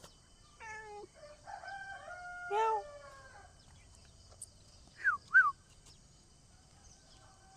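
A rooster crowing, a held call lasting over a second, mixed with shorter pitched calls in the first three seconds, then two quick high chirps about five seconds in.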